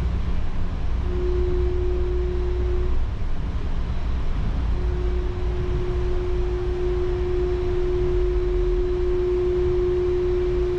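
Taipei Metro Brown Line rubber-tyred train running, heard from on board: a steady low rumble with a single steady humming tone that comes in briefly near the start and again from about five seconds in.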